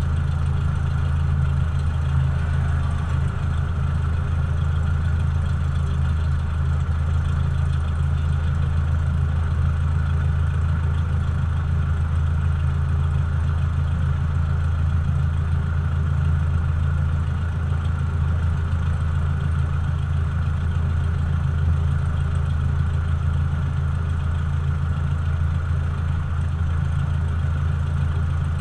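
Cessna 172's piston engine and propeller running at a steady, unchanging speed: a continuous low drone.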